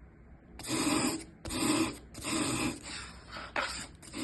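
A thick stick of artist's charcoal being scraped lengthwise in short, even rasping strokes, about five of them, shaving it flat on one side. The strokes fade a little toward the end.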